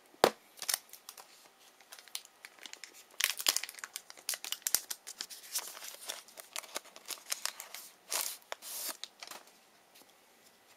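A trading card pack wrapper being torn open by hand and crinkled, in an irregular run of sharp crackles and rips, louder about three seconds in and again near eight seconds.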